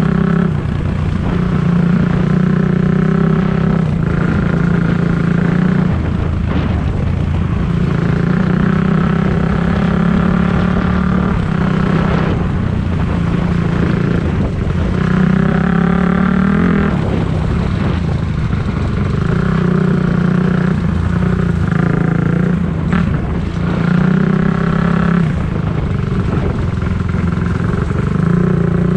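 Dirt bike engine running under load as it is ridden. Its pitch rises and falls again and again with throttle and gear changes.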